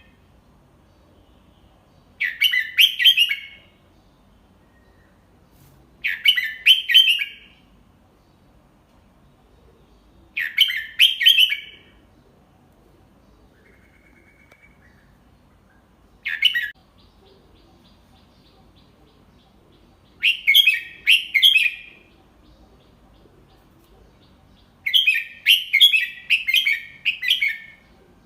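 Red-whiskered bulbul singing short, clear song phrases, one every four seconds or so, each lasting about a second and a half, with a longer phrase near the end.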